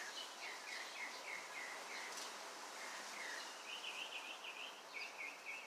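A songbird singing: runs of short repeated chirps, about four a second, over a steady outdoor hiss, the notes stepping up in pitch about halfway through.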